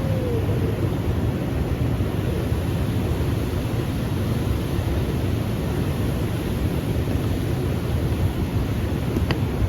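Steady roar of a powerful waterfall, a deep even rush of falling water with no letup. A faint click comes near the end.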